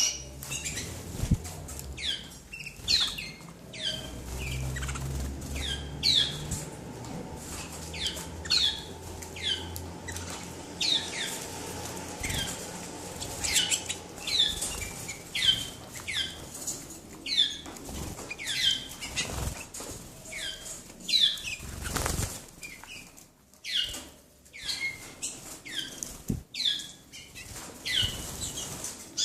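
Canaries chirping: short, quick, falling notes repeated one or two times a second.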